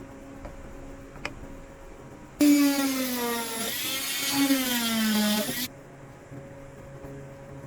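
A small electric power tool motor, drill-like, whines for about three seconds. Its pitch sags twice as it runs, then it cuts off suddenly.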